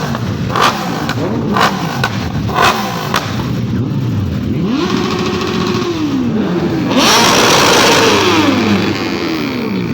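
Sport motorcycle engine revved on the throttle: quick blips in the first few seconds, then held up high for a moment around five seconds in, and revved loudest from about seven seconds in, the pitch rising and falling with each rev.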